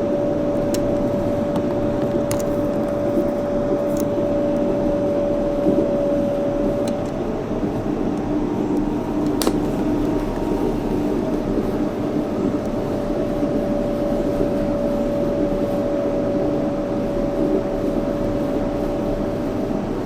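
Yurikamome 7300-series rubber-tyred automated guideway train running at steady speed, heard from inside the front car: a steady whine from the drive under rolling noise, with a few light clicks and one sharper click about nine seconds in.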